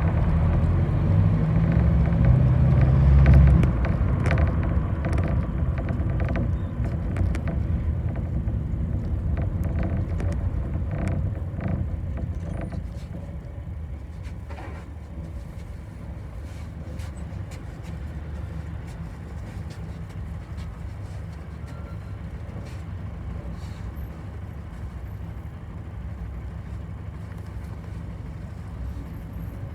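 Bus engine and cabin noise heard from inside a moving bus: a low rumble loudest in the first few seconds, easing off over the next ten seconds to a steadier, quieter run, with scattered rattles and clicks.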